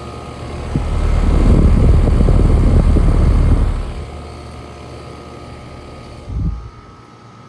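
Steady hum of running air conditioner units, drowned out for about three seconds by a loud low rumble, with a short thump near the end.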